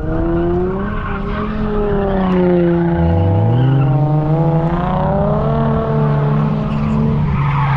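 Car engines running hard, several pitches rising and falling over one another, with tyres squealing.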